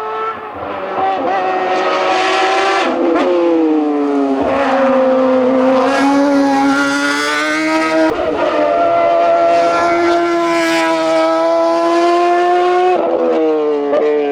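Competition car's engine pulling hard at high revs, the pitch climbing and then dropping at each gear change, about four times.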